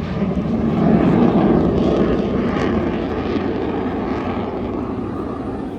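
Military aircraft flying past overhead, its engine noise swelling to a peak about a second in and then slowly fading.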